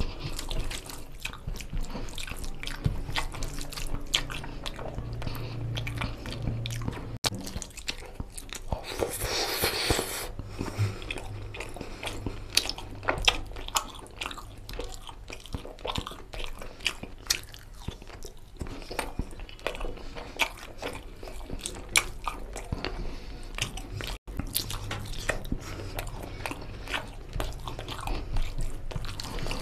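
Close-miked chewing of chicken curry and rice, with wet lip smacks and mouth clicks in a steady run, and the squish of fingers mixing rice into oily gravy. A brief rushing sound about a third of the way in.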